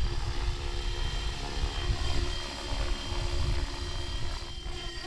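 Blade 330X electric RC helicopter in flight in stunt mode: a steady whine from its motor and spinning rotors, over a low uneven rumble of wind on the microphone.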